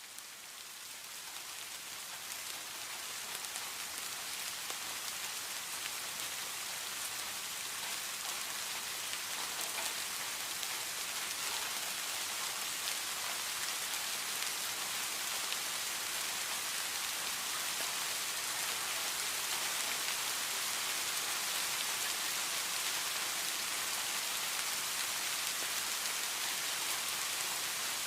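Steady rain falling, a dense even hiss of drops. It swells up over the first several seconds, then holds steady.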